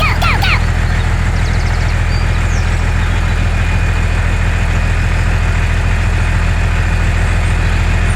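Mini tractor engine idling steadily with an even, unchanging low drone.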